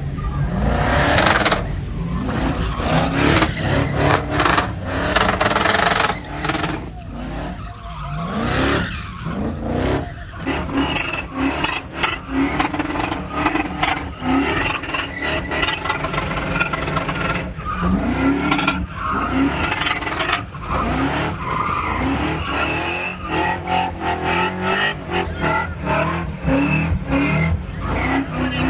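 Truck engines revving up and down over a constant tyre squeal and skid, the sound of trucks doing burnouts and donuts.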